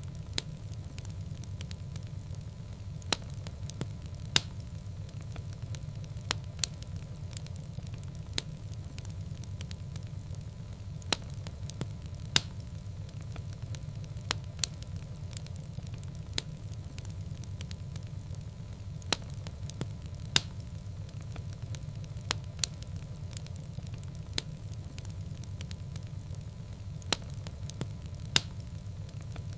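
Wood fire burning in a fireplace: sharp, irregular crackles and pops, one every second or two, over a steady low rumble of the flames.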